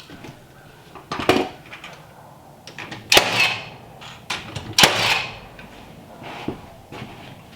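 Three loud knocks, each followed by a short ringing tail, with smaller clunks in between.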